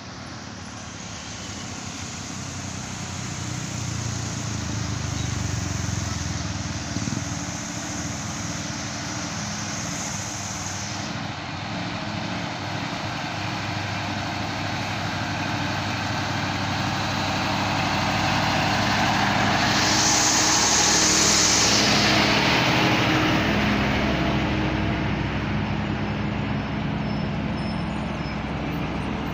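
Heavy truck diesel engine straining up a steep climb, growing louder as the truck draws near and passes about two-thirds of the way through. A strong hiss comes at the loudest point.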